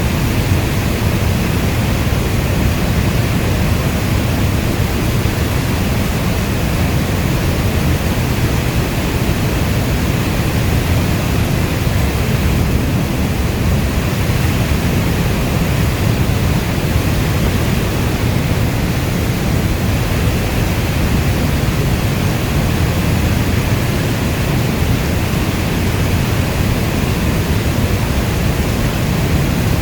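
Heavy rainfall heard as one even, unbroken rush of noise, weighted toward a low rumble, with no separate drops or thunder standing out.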